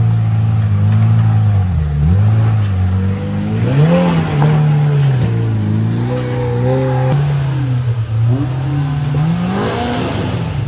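Side-by-side UTV engine running loud under load on a rough trail climb, the revs rising and falling several times as the throttle is worked.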